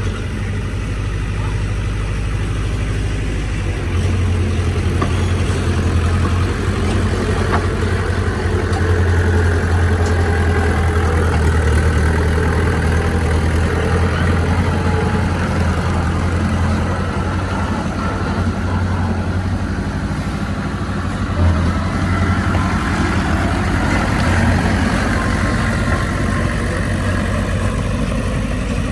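Heavy diesel engine of earthmoving machinery running steadily. It gets louder about four seconds in, and there is a brief knock a little past twenty seconds.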